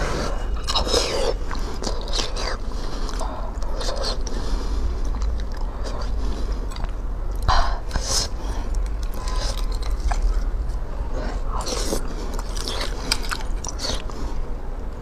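Close-miked wet chewing of soft beef bone marrow, with a metal spoon scraping marrow out of a roasted bone. A sharp click comes about halfway through.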